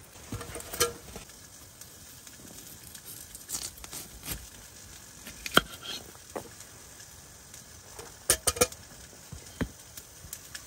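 Irregular sharp clicks and knocks, a few with a brief ringing tone and a quick cluster of three near the end, over a faint steady hiss.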